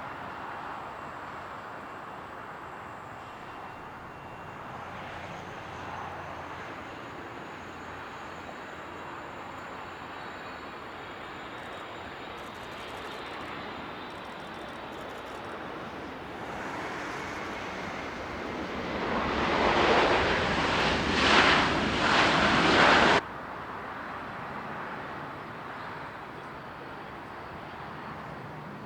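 Jet airliner engine noise at an airport. A steady distant rumble builds into a loud roar of a jet passing close, then cuts off suddenly about three quarters of the way through, leaving the lower background rumble.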